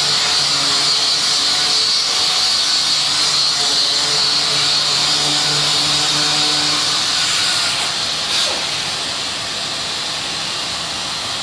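Orbital sander running steadily with a hissing whir, dry sanding hardened body filler. A single click about eight seconds in, after which it runs a little quieter.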